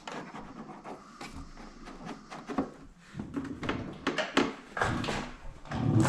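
Scattered clicks, clinks and knocks of tools and parts being handled while working on a motorcycle, with no steady sound beneath them.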